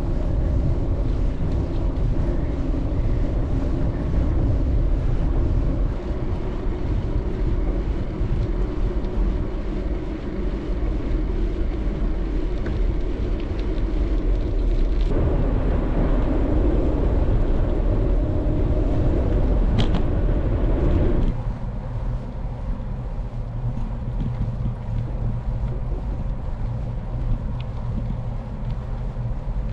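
Wind rushing over the microphone of a bicycle being ridden along a paved road, a steady buffeting rush with a fuller, louder stretch a little past halfway that drops off suddenly.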